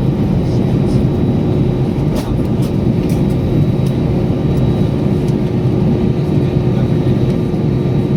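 Steady low rumble of a running vehicle with a constant hum.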